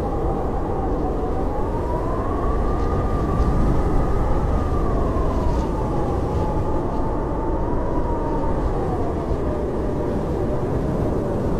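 Howling blizzard wind: a steady low rush with a whistling howl that slowly rises and falls in pitch.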